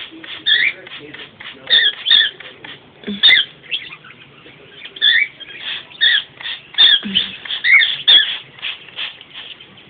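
Pet birds calling during a water shower: a rapid, uneven string of short, sharp, high chirps and squawks, several a second, with a few louder calls standing out.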